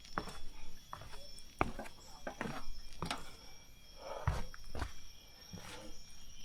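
Footsteps going down steps on a trail: irregular thuds and scuffs about two a second, over a faint steady high-pitched tone.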